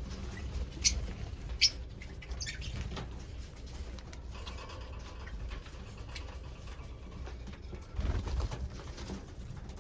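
Pet lovebirds calling and moving about, with two sharp high chirps or clicks about a second in and a burst of wing flutter near the end.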